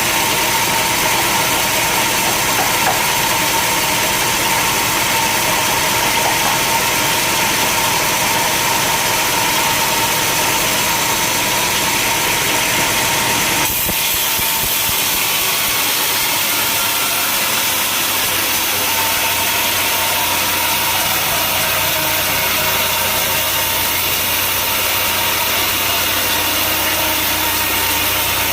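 Sawmill machinery running steadily with a continuous engine-like drone and hiss. About halfway through, the sound changes abruptly to a different steady machine noise.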